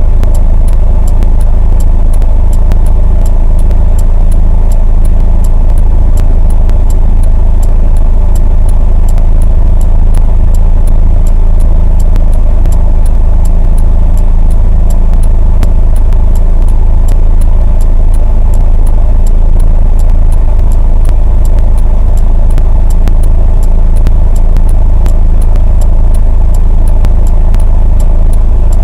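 A vehicle driving, heard from inside the cab through a dashcam: a loud, steady low rumble of engine and road noise with a rapid ticking rattle throughout.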